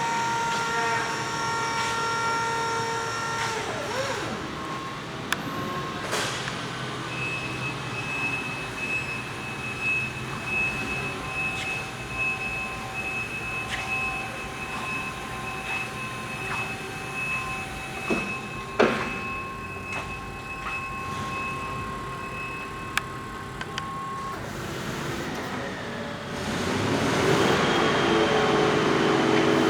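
Raymond electric reach truck running, its motors giving a steady whine of several tones that shift in pitch about four seconds in and grow louder near the end. Occasional clicks and one sharp knock come about two-thirds of the way through.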